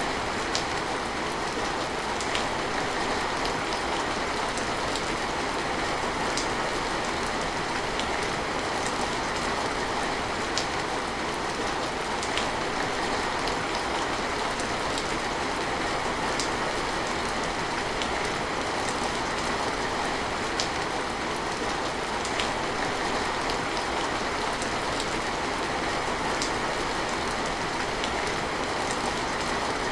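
Steady rain falling, an even hiss that does not let up, with a sharp tick of a single drop about every two seconds.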